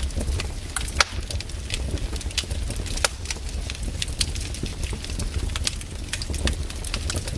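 Wood campfire crackling, with many irregular sharp pops and snaps, the loudest about a second and three seconds in, over a steady low rumble.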